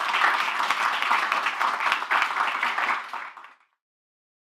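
Audience applauding, a dense clatter of many hands clapping that fades out quickly and cuts off about three and a half seconds in.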